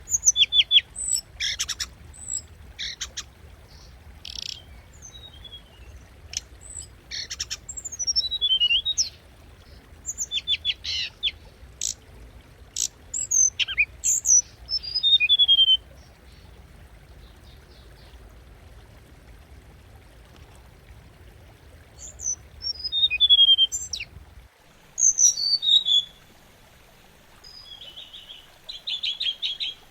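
Hồng hạnh songbird singing, as used for a lure recording: bursts of short, high chirps and quick falling whistled trills. There is a pause of several seconds past the middle before the song resumes.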